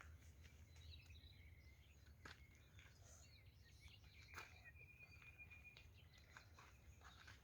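Faint birdsong: scattered chirps and warbling phrases, with one longer held whistle about halfway through, over a low background hum and a few soft clicks.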